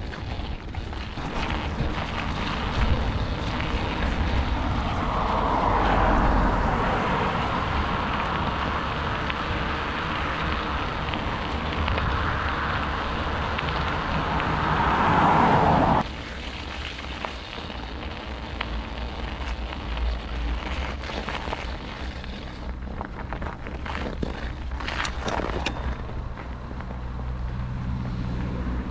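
Wind rushing over the microphone with bicycle tyres rolling during a ride, a steady noisy rush that swells in the first half and drops suddenly about sixteen seconds in.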